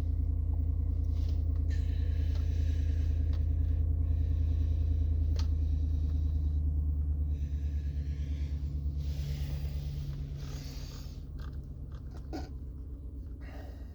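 Low steady drone of the Tahoe's 5.3-litre V8 idling, heard inside the cabin. It eases off in the second half, with patches of soft rustling and hiss over it.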